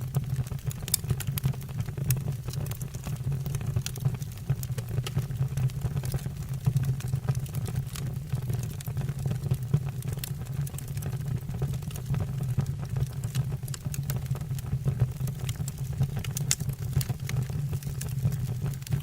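Wood burning in a fireplace: a steady low rumble of the flames with frequent sharp crackles and pops from the burning logs.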